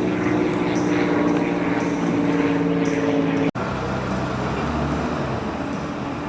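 A car engine running steadily. About three and a half seconds in, the sound cuts out for an instant, then resumes as a deeper, lower rumble.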